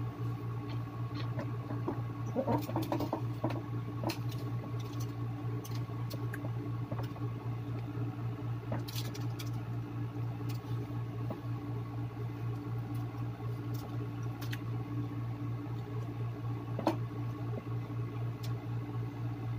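Close-up chewing and mouth sounds of a person eating a burger, with scattered wet clicks and smacks, busiest a few seconds in, over a steady low hum.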